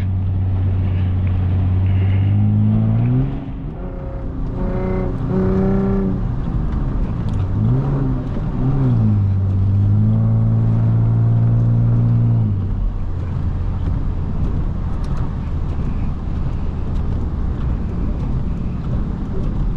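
Lexus IS250's V6 engine running at a steady pitch, then revving up and down in several quick swells, holding steady again, and dropping away about twelve seconds in, leaving a steady rumble of road and tyre noise.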